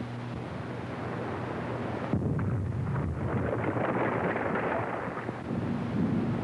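Artillery shell bursting: a sudden blast about two seconds in, running on as a long rumbling roar, over the steady hiss and hum of a worn early sound-film track.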